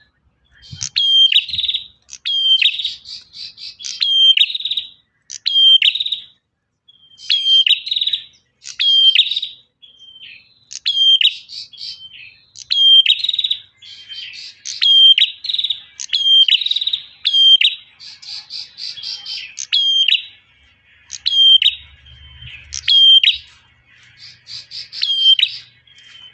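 Male prinia (prenjak) singing. High-pitched phrases repeat about once a second, each a sharp down-slurred whistle followed by a rapid buzzy trill.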